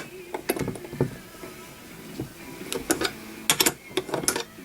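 Small metal parts clicking and clinking as bolts, nuts and tools are handled while a truck mirror's bracket hardware is fitted: a single click about half a second in, then a quick cluster of knocks near the end.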